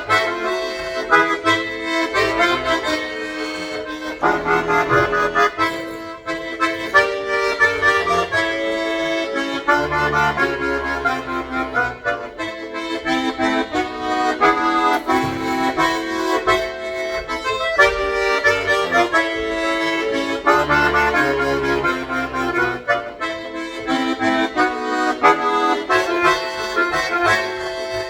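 Solo accordion playing a lively piece: sustained right-hand chords and melody over separate left-hand bass notes that come and go.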